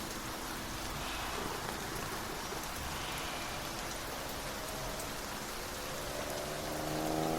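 Steady rain falling, an even dense hiss. Near the end a low tone with overtones comes in and rises slightly in pitch, a little louder than the rain.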